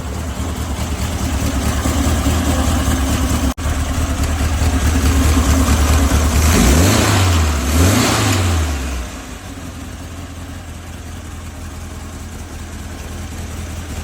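1967 VW Beetle's air-cooled flat-four engine running on a Holley Bug Spray carburetor, idling steadily, then revved twice in quick succession about seven and eight seconds in, the pitch rising and falling each time, before settling back to a quieter idle.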